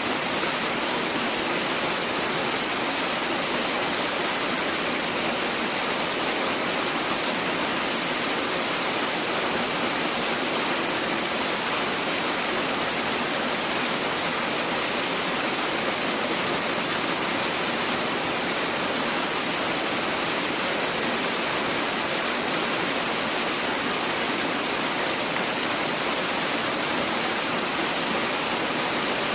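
Steady, unbroken rush of a tiered mountain waterfall's falling water, even throughout.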